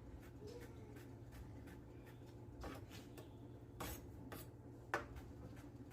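A cooking utensil scraping and rubbing in a pan, with a few light knocks against it, over a low steady hum.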